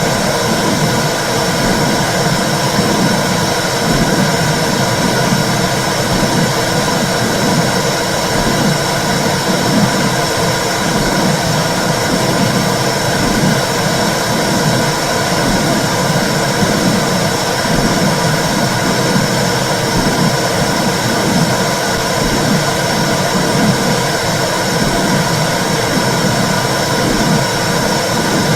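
Womb sound for soothing babies: a loud, steady whooshing rumble with a regular, heartbeat-like pulse running through it.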